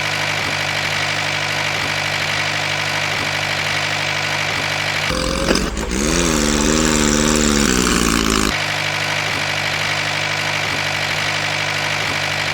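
Small motor of a DIY mini tractor running steadily. About five seconds in it turns louder and lower for some three seconds, with a wavering whine, as if working under load.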